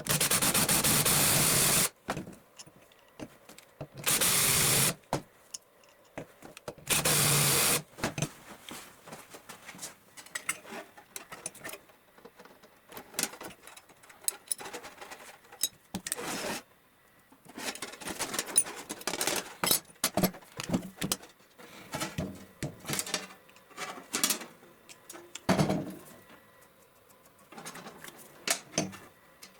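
A power tool run in three short bursts, the first about two seconds long, then many light clicks and scrapes of metal being handled.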